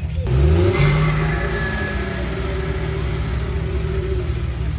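A car engine revs up sharply in the first second, then holds and eases slowly down in pitch.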